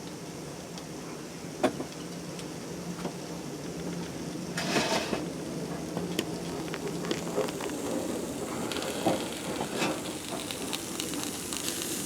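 Food sizzling in a frying pan on a wood stove, a steady hiss broken by a few sharp clicks and knocks.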